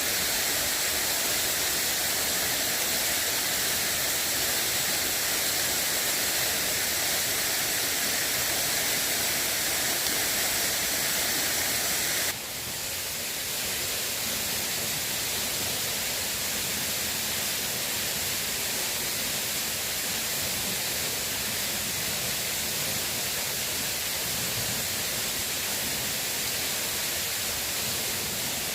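Steady rushing of water, even and unbroken. About twelve seconds in it changes abruptly and becomes slightly quieter and duller, then carries on steadily.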